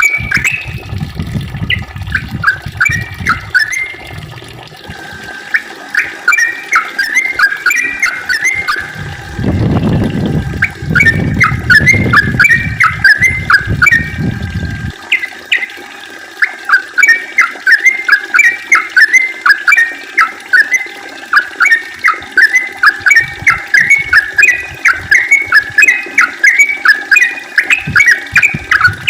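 Yellow-vented bulbul (trucukan) singing a long, rapid string of short chattering notes in quick phrases, the continuous 'ropel' song. A low rumble joins it from about a third of the way in to about halfway.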